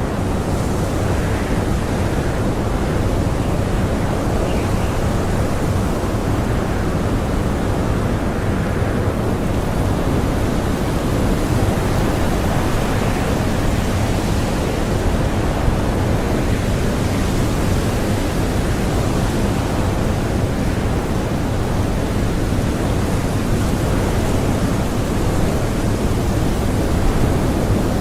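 Strong blizzard wind blowing steadily: a dense, even rushing noise, heaviest and deepest in the low end, with only slight swells.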